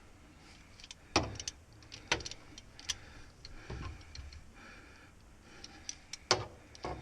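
Scattered sharp metallic clicks and clinks of hand tools and bolts as pan bolts are started with a speed wrench, the loudest about a second in and a pair near the end.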